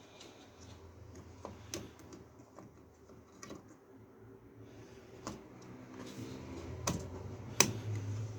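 Scattered plastic clicks and handling noise of a 32 GB RAM stick being fitted into a motherboard memory slot, with the sharpest clicks near the end, over a faint low hum.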